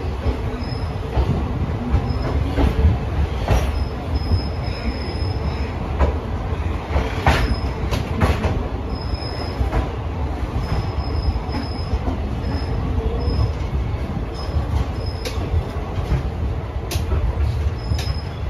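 Passenger train coach running along the track, heard from on board: a steady low rumble broken by sharp knocks from the wheels over rail joints and points, with short high-pitched bursts of wheel squeal coming and going.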